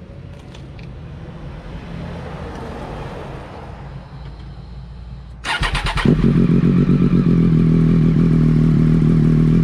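Triumph Daytona Moto2's 675 cc inline-triple cranked on its starter about five and a half seconds in, catching within half a second and settling into a loud, steady cold idle. It is running through a link pipe with the stock under-belly muffler removed.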